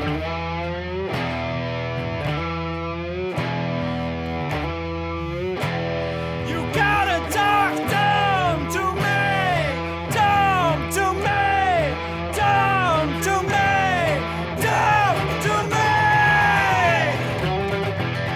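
Rock band playing an instrumental break with electric guitar, bass and drums. About a third of the way in, a lead line of repeated falling pitch bends comes in over it.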